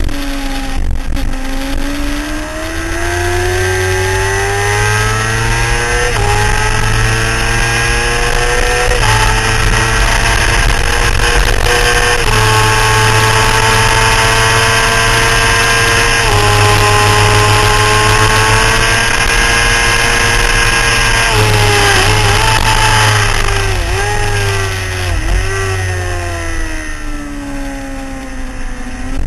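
Motorcycle engine at full throttle, heard from an onboard camera. It pulls up through the gears with a pitch step at each upshift and holds high revs down a straight over heavy wind rush. Later it brakes with a run of quick downshift blips, then starts to pick up again near the end.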